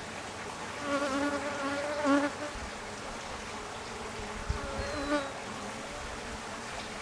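Honeybees buzzing close past the microphone twice, each with a wavering pitch, the first louder and longer, over a steady hiss with a few low thumps in between. The bees are defensive after the hive has been opened.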